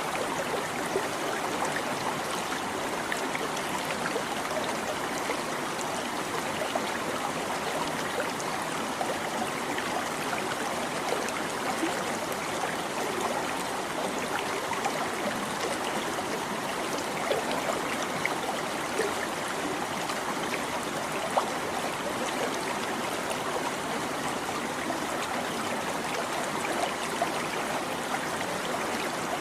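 A small stream babbling and trickling steadily, with little splashes standing out here and there.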